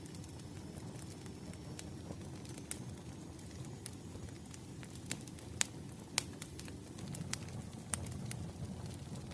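Campfire burning: a steady low rumble of flames with irregular sharp crackles and pops from the burning wood, a few louder pops in the second half.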